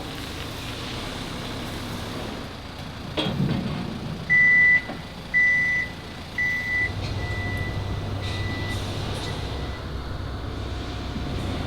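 A machine's warning beeper sounding about once a second, three loud beeps followed by fainter ones, over a low engine rumble. There is a knock shortly before the beeping starts.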